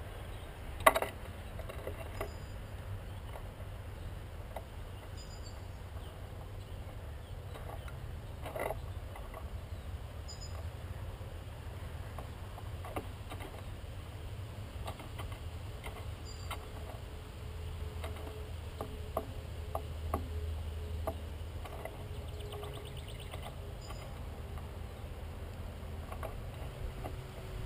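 Birds visiting a feeder: scattered sharp taps and clicks, the loudest about a second in, and a few faint high chirps, over a steady low rumble of wind on the microphone.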